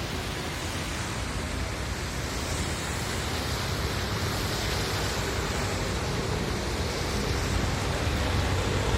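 Steady rushing of the swollen, overflowing floodway river, with a low rumble underneath.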